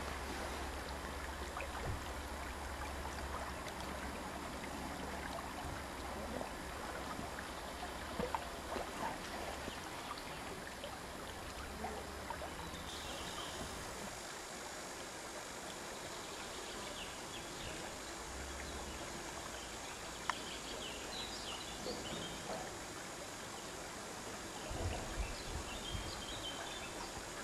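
Mountain torrent rushing over rocks, a steady noise of running water.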